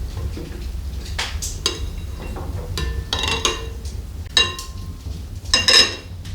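Several clinks and knocks of hard objects striking each other, some leaving a short ringing tone, with the loudest cluster near the end, over a steady low hum.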